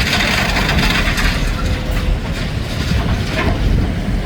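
Demolition machines working through rubble: engines running under a steady heavy rumble, with crushing and grinding of broken concrete and metal as it is picked over.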